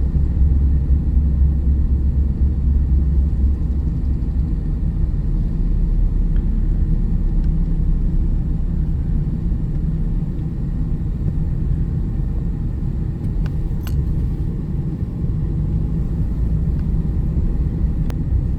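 Steady low rumble throughout, with a couple of faint clicks near the end.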